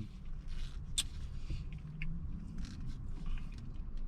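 Low steady background rumble with faint scattered rustles and clicks, including one sharper click about a second in.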